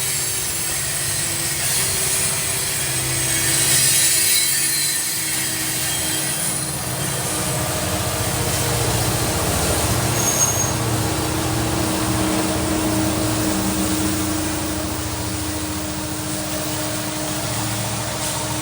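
Norfolk Southern freight train's cars rolling past on the rails: a steady rumble of wheels on track, with faint drawn-out tones of wheel squeal over it.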